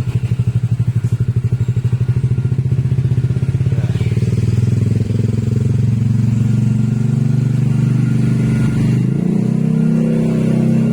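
Motorcycle with a new aftermarket exhaust, idling with a strong, even pulse, then the revs rise about four seconds in and hold at a higher, smoother note, climbing again near the end.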